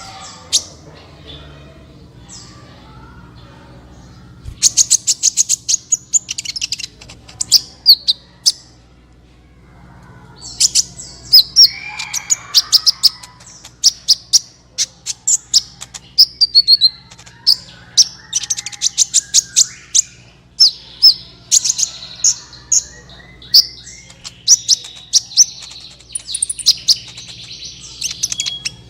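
Sunbird ('kolibri') singing energetically: rapid, very high-pitched chirps and fast rattling trills in repeated bursts, with a brief pause about nine seconds in.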